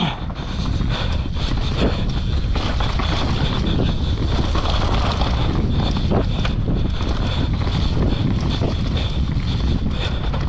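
Wind rushing over the helmet-camera microphone while a mountain bike rolls over rough trail, with frequent short knocks and rattles from the bike.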